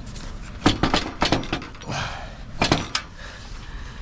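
A run of sharp knocks and clanks as trailer gear is pushed and wrestled by hand. There is a quick cluster of hits about a second in, then another pair near the end.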